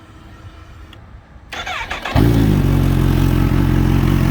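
A 2024 Kawasaki Z H2's supercharged inline-four, fitted with an Akrapovič slip-on exhaust, is started: about a second and a half in the starter whines briefly, the engine catches about two seconds in, and it settles into a steady idle.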